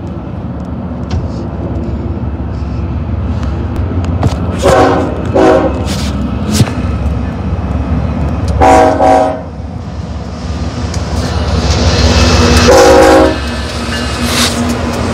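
BNSF diesel locomotives leading an intermodal freight train, their engines rumbling louder as they approach, while the horn sounds four blasts: two short ones, then two longer ones. In the last few seconds the wheels on the rails add a rising hiss as the locomotives come alongside.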